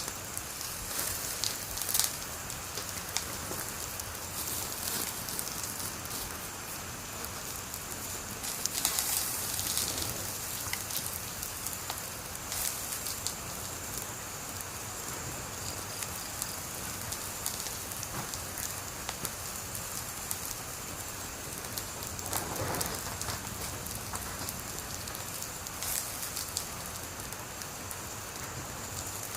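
Wood fire burning with a steady hiss and frequent small crackles, broken by a few louder pops and snaps.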